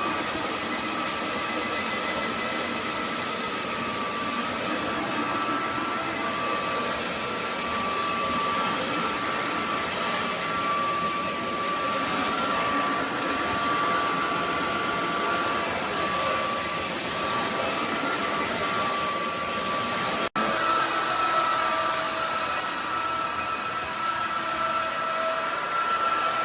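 Roborock F25 ACE wet/dry floor vacuum running steadily, a motor whine over a steady rush of air. About three quarters of the way through the sound cuts out for an instant and comes back with the whine slightly higher.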